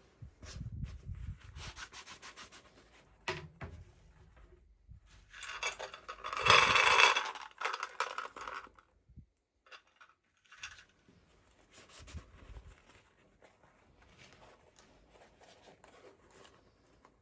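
Hands rubbing and handling toy packaging in an unboxing, an irregular scratchy rustle with a louder stretch of rubbing a little past the middle.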